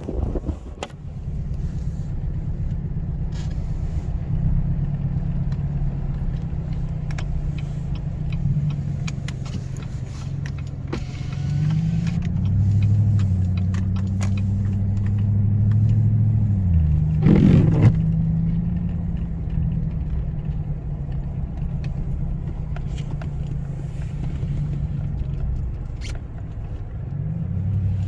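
An engine running steadily with a low hum; its pitch rises about twelve seconds in, holds, then drops about seventeen seconds in, with a brief rush of noise just after.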